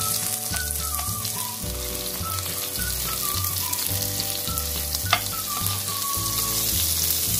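Chicken cutlet patties frying in melted butter in a nonstick pan: a steady sizzle, with one sharp tap about five seconds in as the patties are turned. Soft background music with a melody and bass plays underneath.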